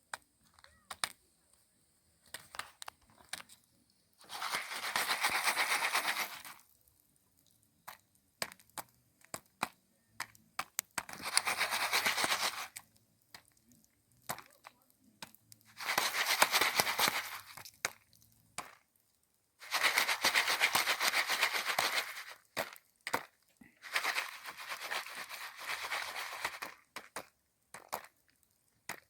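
Jiffy Pop foil pan shaken over a campfire as the popcorn cooks: five rattling, sizzling bursts of about two seconds each, with scattered sharp pops and cracks between them.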